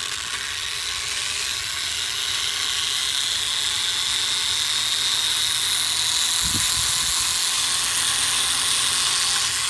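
Air Hogs E-Charger micro plane's tiny electric motor and propeller running with a steady high-pitched whir.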